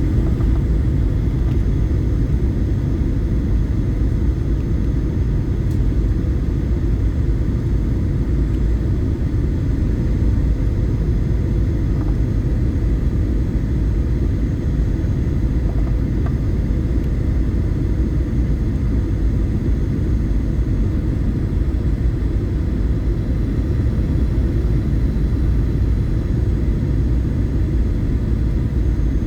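Airliner cabin noise on the approach to landing: a steady, loud low rumble of engines and airflow heard inside the cabin, with a faint steady hum over it.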